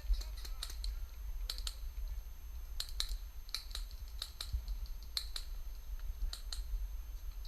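Irregular sharp clicks and crackles, like dry twigs and brush snapping as someone pushes through dense undergrowth, over a steady low rumble.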